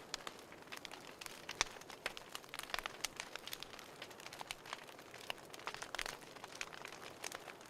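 Wood fire crackling in a fireplace: irregular sharp snaps and pops over a soft hiss, one louder snap about one and a half seconds in.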